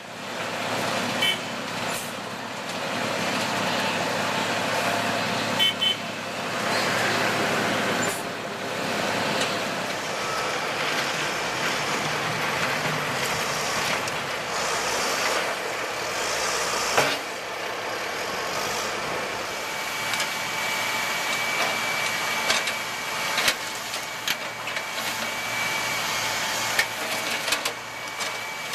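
Heavy trucks and machinery of an asphalt patching and paving crew running steadily, with a few sharp knocks and clanks.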